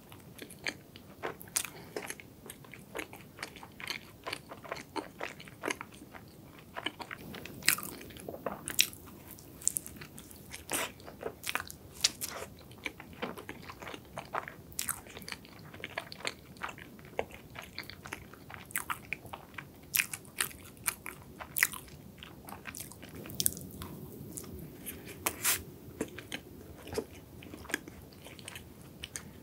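Close-miked chewing of a cream-filled donut with a crunchy nut topping: many irregular crisp clicks and crunches, a few of them louder.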